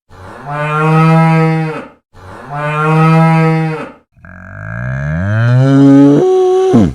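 Cow mooing three times: two steady moos, then a longer moo that rises in pitch and drops off sharply at the end.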